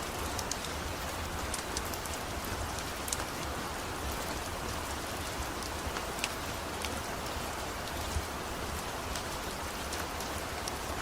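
Steady rain falling, with scattered sharp clicks and pops over it, a few louder ones standing out.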